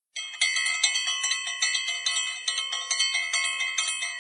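Bright bell-like chimes, many pitches ringing together and struck again several times a second, starting abruptly and running steadily.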